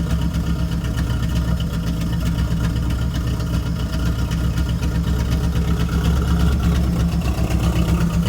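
Third-gen Chevrolet Camaro's engine idling steadily through its new header-back exhaust.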